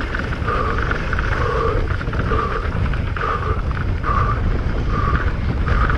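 Mountain bike running down a rough trail: a constant low rumble of rattle and wind on the camera microphone, with the rider's hard breathing in short, regular puffs about once a second.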